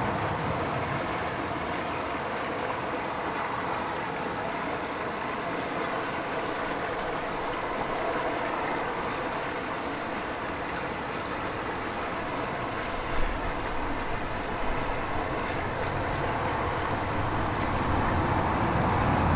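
A steady rushing noise, with a single short knock about 13 seconds in.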